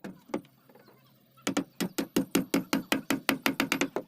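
Rapid hammering on wood, about seven quick knocks a second, starting about a second and a half in after a brief pause.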